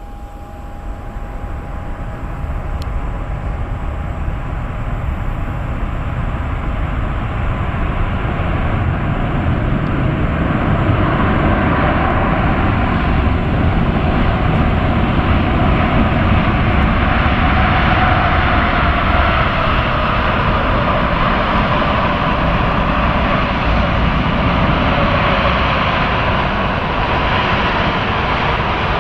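Jet noise from the four GEnx engines of a Boeing 747-8F freighter on its landing arrival, growing steadily louder for about the first twelve seconds and then holding loud, with a whine that falls in pitch partway through as the aircraft passes.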